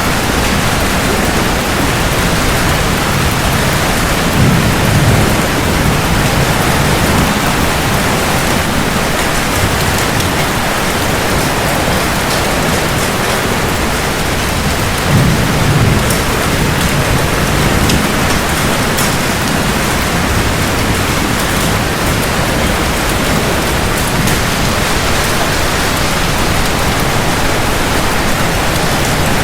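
Steady rain pouring on hard surfaces, with low rolls of thunder rumbling up twice, about four and fifteen seconds in.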